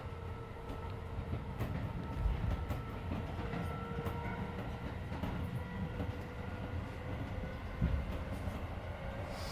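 Keisei 3400 series electric train running at speed, heard from inside the passenger car: a steady rumble of wheels on rail with a faint steady whine, and two heavier thumps about two seconds and eight seconds in.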